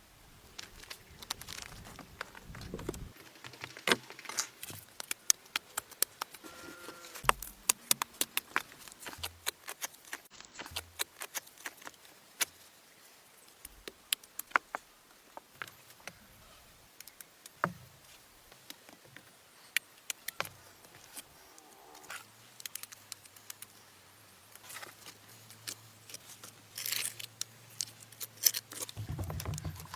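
Irregular sharp clicks and light taps, several a second, like small hard objects being handled, with a faint low hum through the later part.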